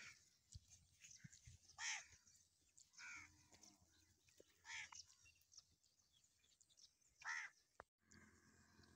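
A bird calling four times, short calls spaced a second or two apart, over near silence.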